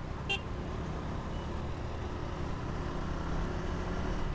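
KTM Duke 200's single-cylinder engine and road noise while riding: a steady low rumble that grows slightly louder, with one short sharp click about a third of a second in.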